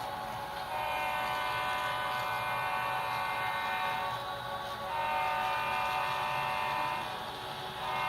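Diesel locomotive air horn played by a model train's digital sound decoder: two long, steady multi-note blasts, with a third starting near the end.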